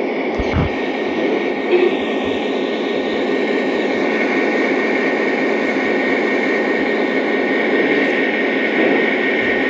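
Lionel model trains running around the track: a steady, continuous rumble of the locomotives' motors and wheels on the rails, with a faint steady whine over it and a brief low thump about half a second in.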